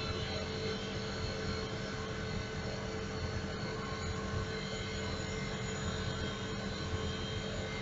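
Split air-conditioning unit running: a steady mechanical hum and hiss with a few faint held tones.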